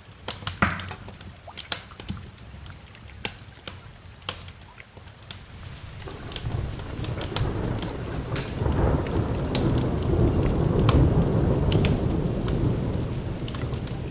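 A wood fire crackling and popping with sharp snaps throughout, over rain. About six seconds in, a long roll of thunder rumbles in, builds and then slowly eases off.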